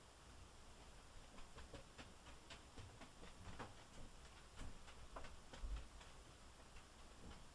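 Near silence: basement room tone with faint, irregular small ticks and clicks.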